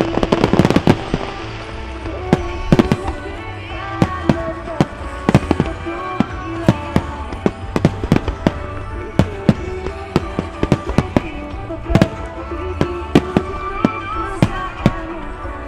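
Extra-large starmine fireworks barrage: many sharp bangs, a dense crackling flurry in the first second, then shells bursting every half-second or so. Music from the venue's loudspeakers plays underneath.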